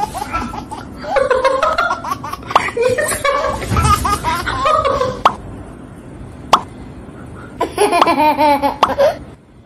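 A person laughing hard in repeated bursts, with a couple of sharp knocks in the quieter stretch in the middle.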